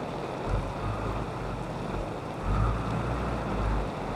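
Wind buffeting the microphone in low rumbling gusts, about half a second in and again from midway to near the end, over a steady noisy wash of wind and water.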